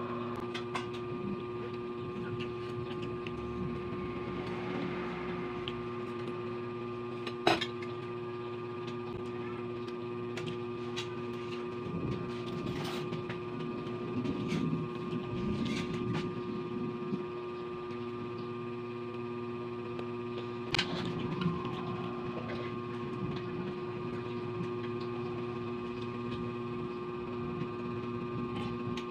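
Close-up eating sounds: a person chewing food, with a few short, sharp clinks of a spoon on dishes, over a steady background hum.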